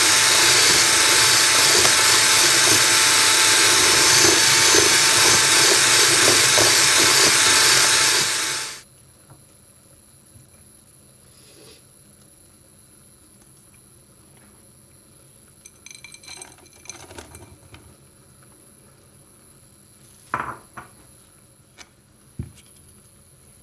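Loud steady rushing noise, like a household appliance or running water, that cuts off suddenly about nine seconds in. After it, a few light clinks and knocks of small objects being handled.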